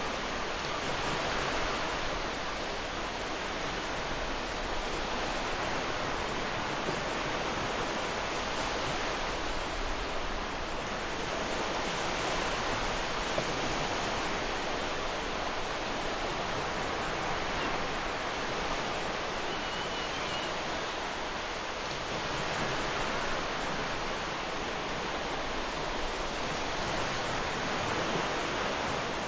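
Ocean surf washing onto a beach: a steady rush of breaking waves that swells and eases gently every several seconds.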